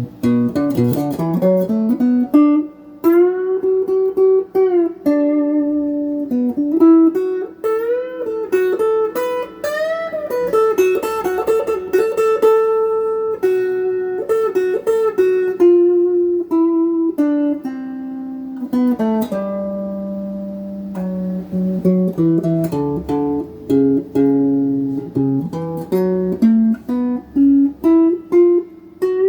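GEARIT GI-155 Les Paul-style electric guitar with stock pickups, played clean through a Crate GX15R amp: a lead line of single notes with string bends and slides, some notes held.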